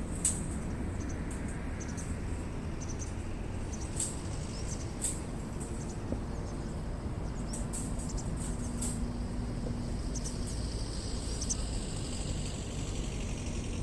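Wood campfire crackling, with scattered sharp pops and snaps over a steady low outdoor rumble.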